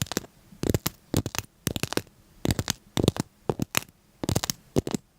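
Irregular crisp scratching and crackling: short clusters of sharp clicks several times a second, with brief pauses between.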